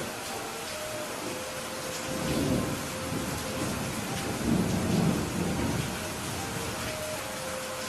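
Steady rain falling, with two low rolls of thunder: one about two seconds in and a longer, louder one from around four to six seconds.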